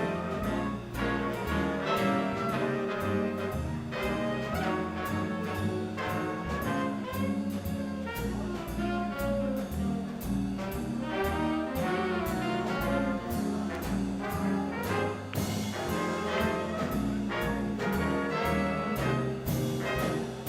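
Live swing band playing an instrumental chorus: trumpet, trombone and saxophones over upright bass, guitar and drums keeping a steady dance beat.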